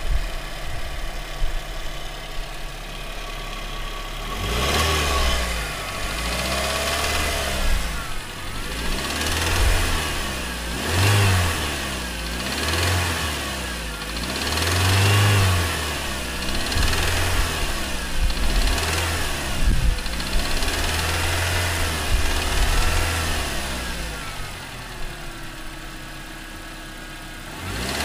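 Car engine with a spun bearing idling, then revved up and let fall again and again for about twenty seconds before settling back to idle near the end. The knock of the spun bearing comes through the revs.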